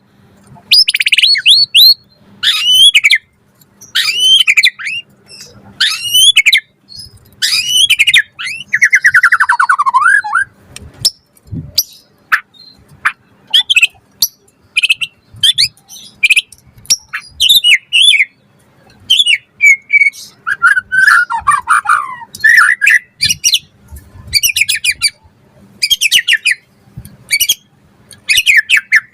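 White-rumped shama (murai batu) singing loudly: a string of short, varied whistled phrases and rapid chirps with brief pauses between them, including two longer trills that fall in pitch, about nine and twenty-one seconds in.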